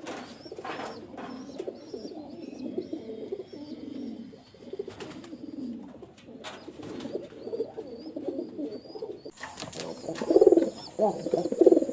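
Several domestic pigeons cooing together, overlapping low rolling calls that get louder about nine and a half seconds in. A faint high chirp repeats above them.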